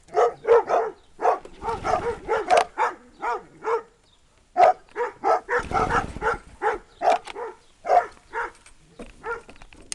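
Dogs barking excitedly in quick bursts of short, high barks and yips, worked up by the lawn mower they hate. The barking pauses briefly about four seconds in, then picks up again.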